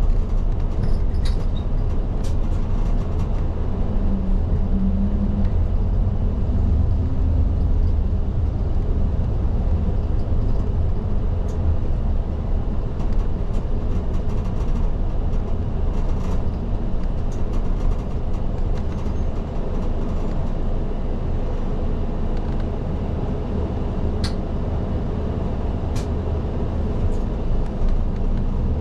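Isuzu Erga city bus running on the road, heard from inside the cabin: a steady low diesel rumble with road noise. A faint rising whine comes in about four seconds in, and a few light clicks sound near the end.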